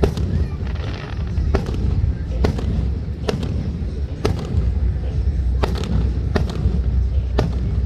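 Fireworks display: a run of sharp bangs, about one a second, over a steady low rumble.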